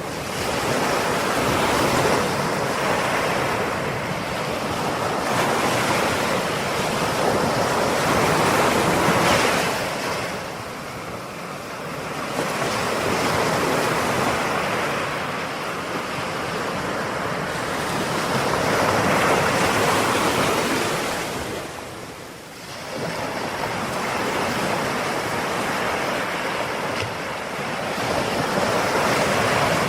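Ocean waves breaking and washing on the shore in repeated surges, each swell rising and easing every few seconds, with a dip about two-thirds of the way through.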